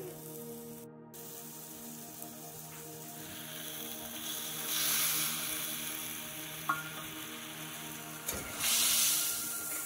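Sliced tomatoes tipped into hot oil in a metal kadai, the oil sizzling up about five seconds in. A spatula then stirs them, with a second, louder burst of sizzling near the end.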